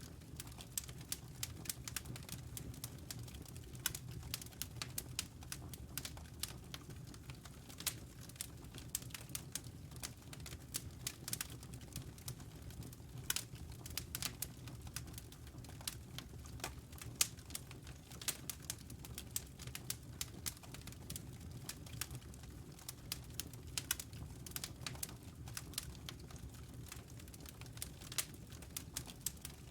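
Wood fire crackling and popping: a dense run of sharp snaps, several a second with the odd louder pop, over a steady low rumble of the burning fire.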